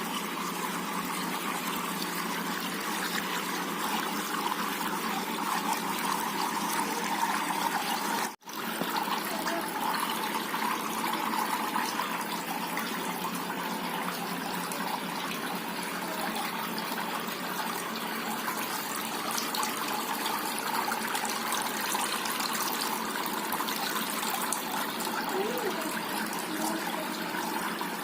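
Water trickling and splashing steadily down a small cement waterfall fountain, dropping out for an instant about eight seconds in.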